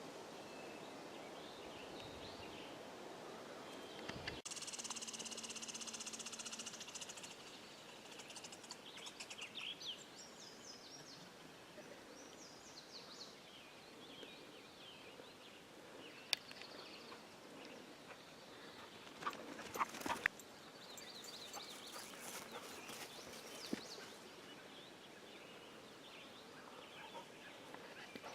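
Small songbirds chirping and singing in short, high notes, with a dense high trill for a couple of seconds about four seconds in. A few sharp clicks stand out near the middle.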